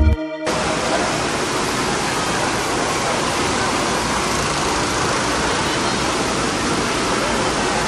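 Organ music cuts off right at the start, followed by a steady, even rushing noise with no distinct events.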